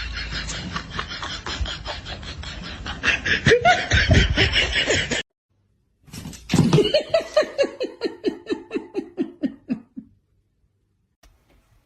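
A noisy stretch with rapid ticking that cuts off abruptly about five seconds in. About a second later comes a person's laugh: a quick run of short 'ha' pulses that falls steadily in pitch and fades out.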